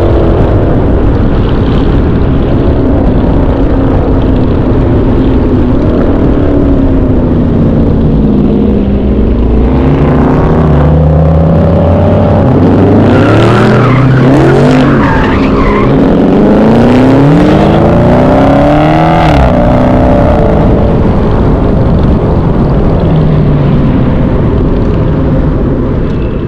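Several V8 muscle-car engines running loud and being revved, their pitches rising and falling over one another, most busily through the middle stretch.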